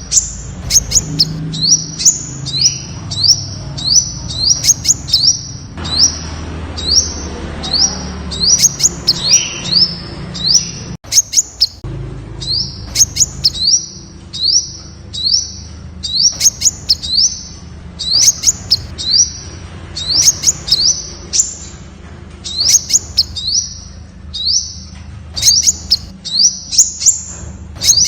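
Temminck's sunbird calling: a fast, steady series of short, high chirps, each sweeping upward in pitch, about three a second.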